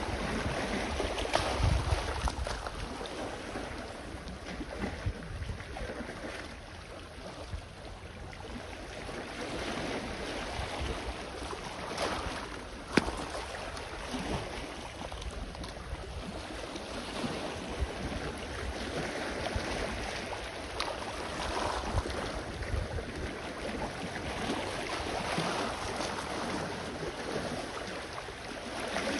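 Small sea waves washing on the shore, the wash swelling and easing every few seconds, with low wind rumble on the microphone. A single sharp click about 13 seconds in.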